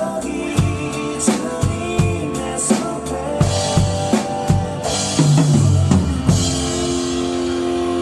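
Instrumental band music from a Christian pop song, with no singing: a drum kit keeps a steady beat under held chords. About five seconds in, cymbal crashes and a falling bass line lead into a long held chord.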